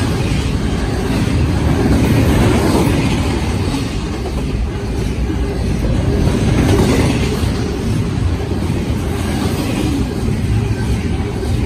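Union Pacific doublestack intermodal train's well cars rolling past, with a steady, loud rumble of steel wheels on the rails.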